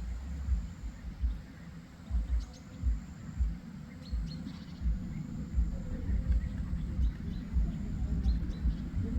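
Birds chirping briefly now and then, over irregular low thumps and rumbles.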